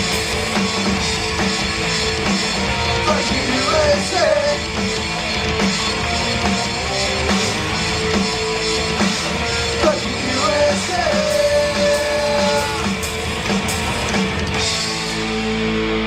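Rock band of electric guitars, bass guitar and drums playing hard, with a few sliding pitched notes over the top. About fifteen seconds in the drums stop and held guitar notes ring on, the close of the song.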